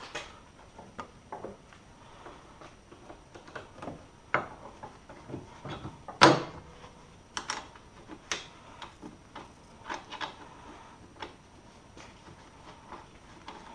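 Hand tools and metal suspension parts being handled: scattered light clicks and knocks, with one louder clank about six seconds in.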